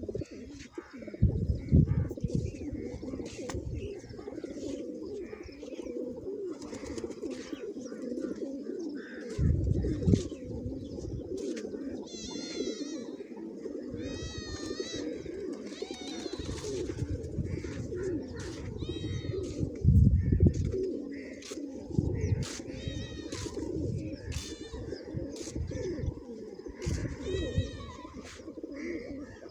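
Many pigeons cooing together without a break, a dense overlapping drone of calls. Higher warbling chirps come through now and then, and a few dull low thumps stand out, the loudest about two-thirds of the way in.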